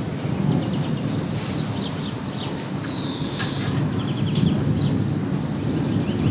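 Gusty wind rumbling steadily on the microphone, while small birds give short chirps and trills throughout.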